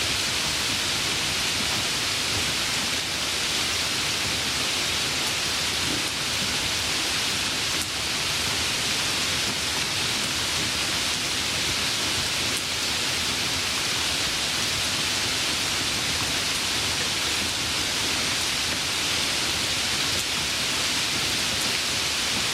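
Steady, even rain falling, a continuous hiss with no let-up.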